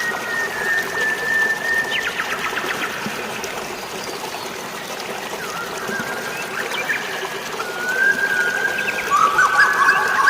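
Steady rush of flowing water with birds calling over it: a long held whistle at the start, a few quick chirps about two seconds in, and more long whistled notes from about eight seconds.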